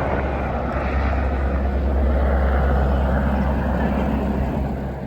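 Aircraft engine running at an airport: a loud, steady rumble and roar.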